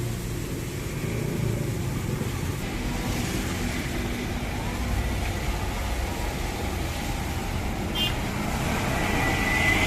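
Old car's engine running steadily, then rising in pitch and getting louder near the end as it speeds up. A short click comes about eight seconds in.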